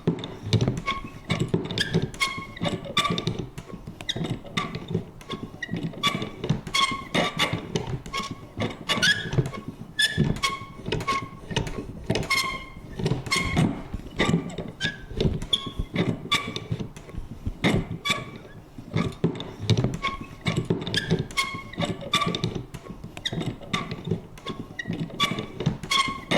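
Vintage paper punch working over and over: an irregular run of clicks and knocks, several a second, many with a short high squeaky creak.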